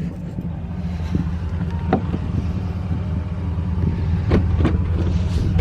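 A 2008 Chevrolet Impala SS's 5.3-litre LS4 V8 running steadily at idle through a muffler-deleted, straight-piped exhaust, with a low, gurgly burble. The owner takes the growing gurgle as the fresh exhaust breaking in.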